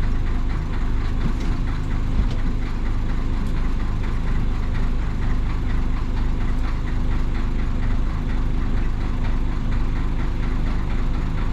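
1966 Isuzu BXD30 bonnet bus's DA640 diesel engine running steadily at an unchanging pitch, with a diesel clatter.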